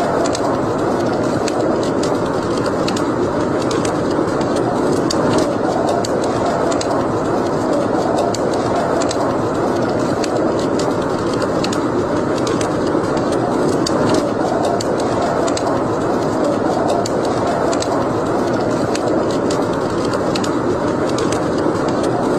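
Wood fire burning in a fireplace: a steady rushing noise with many small, irregular crackles and pops.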